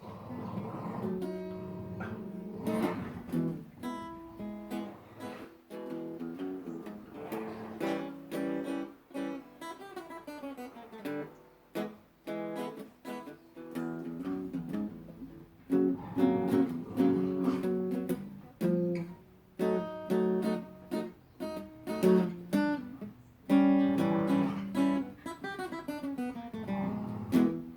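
Acoustic guitar music, strummed and picked chords, playing throughout.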